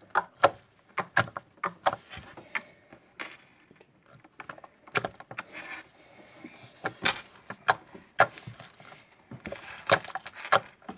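Slime being squeezed and worked by hand, giving a run of irregular sharp clicking pops.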